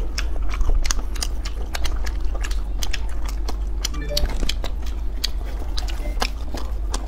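People chewing mouthfuls of pineapple pizza close to the microphone: irregular mouth clicks and smacks, several a second.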